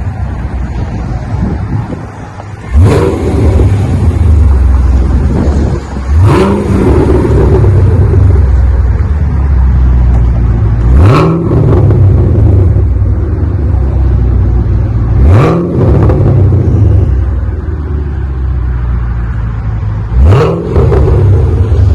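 A 2017 Camaro SS's 6.2-litre V8 idles through a custom axle-back dual exhaust with single-chamber V-tube mufflers. The engine is blipped five times, each rev rising sharply and dropping straight back to idle.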